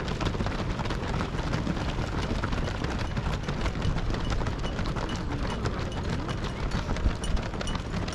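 Many marathon runners' shoes striking the road in a dense, irregular patter as a large pack streams past, over a steady low rumble.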